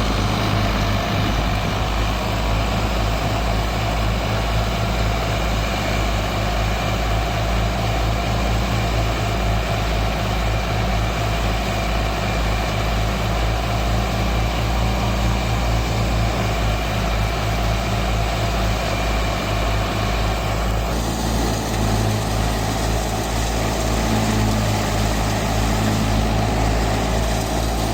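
Al-Ghazi tractor's diesel engine running steadily, driving a wheat thresher.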